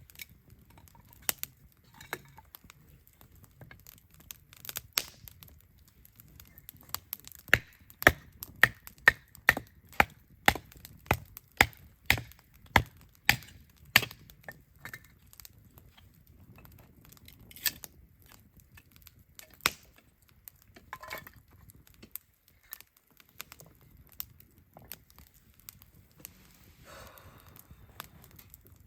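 Firewood being chopped or split for a campfire: a run of about a dozen sharp wooden strikes, about two a second, in the middle, with scattered cracks and knocks before and after.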